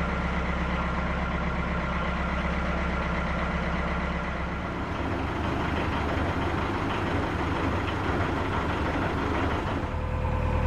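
Narrowboat engine running steadily under way, a low even hum that turns less even about halfway through.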